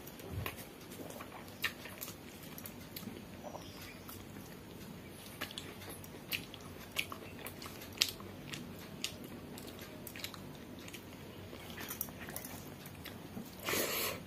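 Close-miked eating sounds from someone eating soft rice and dalma by hand: chewing with scattered, irregular mouth clicks and smacks. A louder noisy burst comes just before the end.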